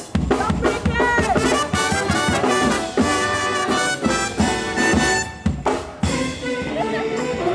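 Brass band music with trumpets, trombones and drums playing to a steady beat, starting abruptly at the outset.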